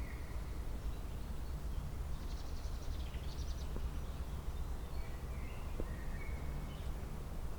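Songbirds calling faintly over a steady low rumble, with a rapid trill about two to three and a half seconds in and short whistled calls near the start and again after five seconds.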